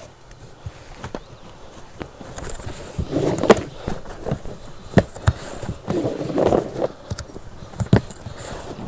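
Handling noises in a boat: several sharp knocks, with short bouts of scraping in between.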